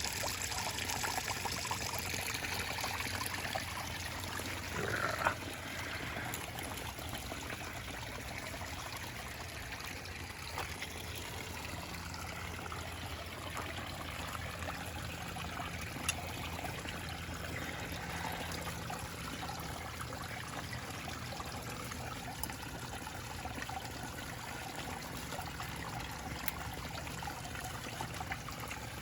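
A small pond waterfall trickling and splashing steadily, with a brief louder sound about five seconds in.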